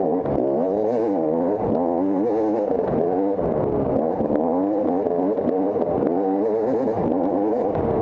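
Dirt bike engine under hard riding, its pitch climbing and dropping every fraction of a second as the throttle is worked on and off, with a few sharp clicks over it.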